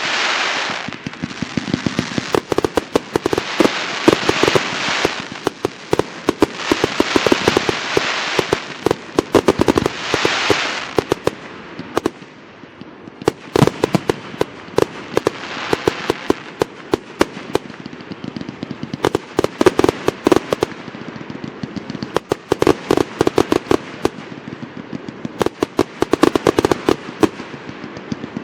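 Fireworks display: a continuous barrage of bangs and sharp cracks, with waves of crackling from bursting shells every couple of seconds.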